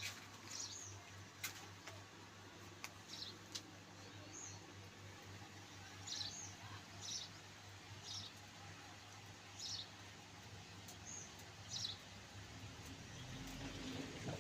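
A small bird chirping: short, high chirps about once a second, with a faint steady low hum underneath.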